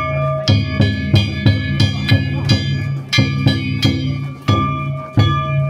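Danjiri festival music: a taiko drum and metal kane gongs struck together in a steady beat of about two strikes a second, the gongs ringing on after each stroke.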